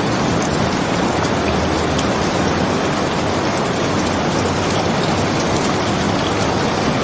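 Steady rain, an even hiss with a few faint ticks scattered through it.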